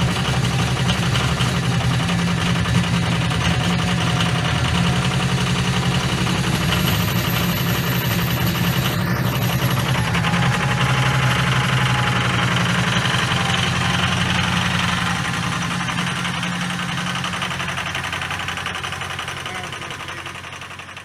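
Ford 6.0 L Powerstroke V8 turbo-diesel idling steadily, still cold after a cold start without the block heater plugged in. The sound fades out gradually over the last few seconds.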